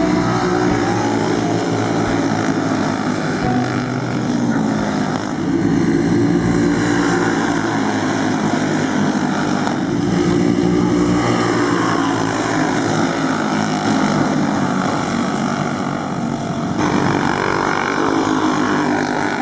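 Several racing go-kart engines running hard together, their droning pitch rising and falling.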